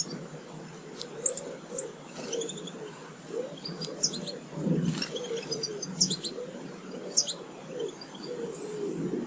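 A pigeon cooing in a repeated low phrase, with small garden birds chirping high over it.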